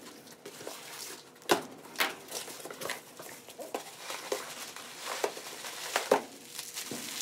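Packaging being handled as a new A/C compressor is unpacked from its box: scattered light taps, clicks and rustles.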